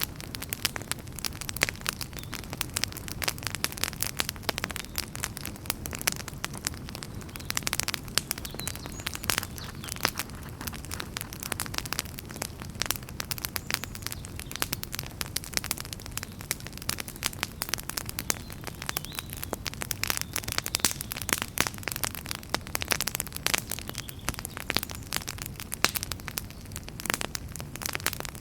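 Wood fire burning in a fireplace, crackling and popping irregularly and densely over a steady low rumble of the flames.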